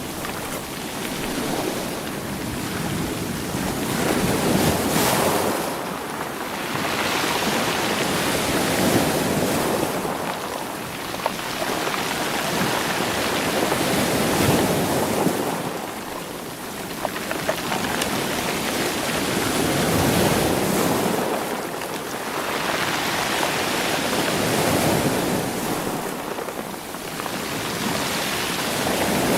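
Sea waves washing against a rocky shore and rolling the stones, the surge swelling and drawing back about every five seconds.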